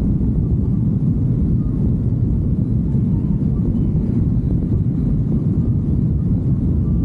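Steady low rumble heard while riding a motorcycle: an even roar of wind and road noise with no clear engine note.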